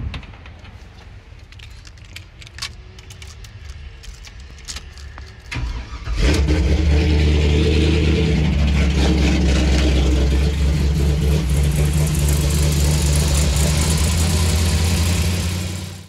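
A few clicks and knocks, then about six seconds in the LS V8 in a 1985 Chevy C10 is cranked, catches, and runs steadily. The freshly assembled engine is started to warm up so the newly fitted radiator can be checked for leaks.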